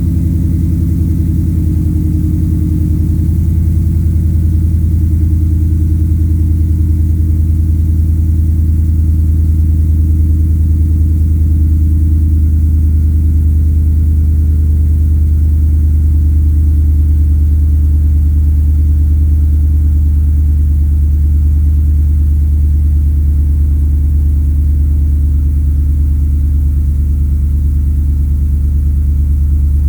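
Ford Coyote 5.0 V8 idling steadily after a cold start, exhaust through long-tube headers, a Magnaflow muffler and two 3-inch Vibrant resonators: a deep, even rumble. Its pitch settles slightly lower over the first dozen seconds as the cold fast idle comes down.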